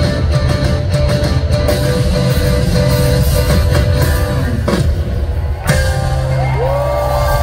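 Live rock band playing loud, with electric guitars, bass and drums filling a large hall. About five and a half seconds in there is a brief break, then a held note slides up and sustains.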